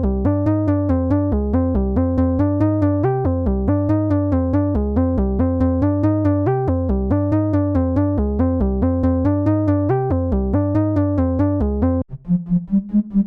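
u-he Triple Cheese software synthesizer playing a fast, evenly repeating sequence of notes over a steady bass, about four notes a second. About twelve seconds in it changes abruptly to a thinner, pulsing sound of separate lower notes.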